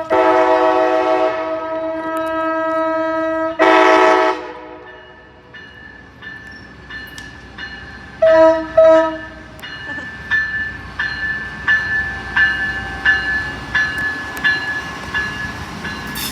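Amtrak ALC-42 Charger locomotive's multi-note air horn sounding two long blasts, then two short toots about 8 seconds in. After the horn, a steady rhythmic clicking of the passing train continues over a thin high steady tone.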